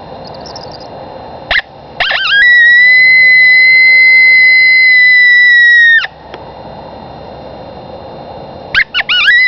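Handmade cow horn howler blown as a coyote howl call. A short yelp about a second and a half in is followed by a quick rising break into one long howl, held at a steady high pitch for about three and a half seconds and dropping slightly as it cuts off. Near the end, a quick run of rising yips starts the next howl.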